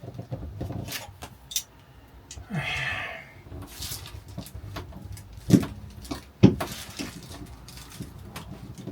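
Clicks and knocks of hand work on a PVC shower wall panel as it is screwed in place: scattered light clicks, a brief rasping burst about two and a half seconds in, and two sharp knocks a little past halfway.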